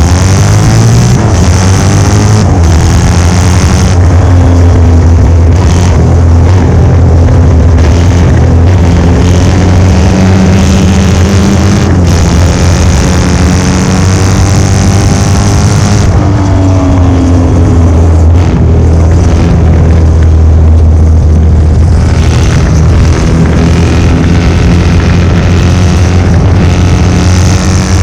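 1972 Norton 750 short-stroke parallel-twin racing engine running hard at high revs. Its pitch dips and climbs again near the start and about two-thirds of the way through.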